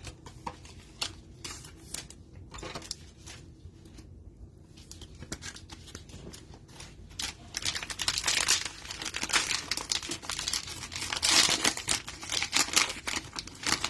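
Cellophane wrapper of a trading-card cello pack being torn open and crinkled. There are light, scattered crackles at first, then loud, dense crinkling from about halfway through.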